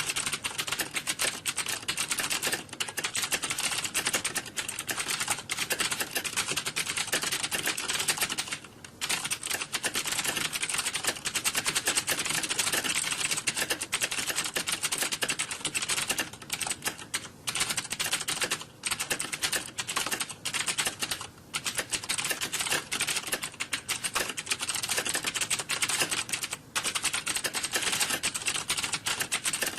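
Fast, continuous typing on computer keyboards, the key clicks running together almost without a break, with a few brief pauses.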